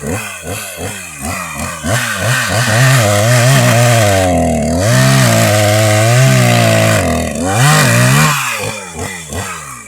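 Two-stroke chainsaw cutting wood, its engine pitch rising and sagging repeatedly as the throttle and the load change, then dropping toward idle near the end.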